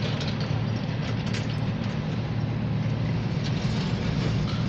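Steady low rumble of a heavy vehicle, with faint light clicks and rattles over it and no change in level.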